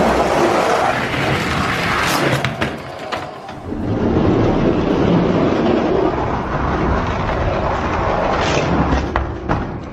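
Die-cast toy monster trucks rolling down a plastic drag-race track, making a continuous rumbling noise with a few sharp clacks.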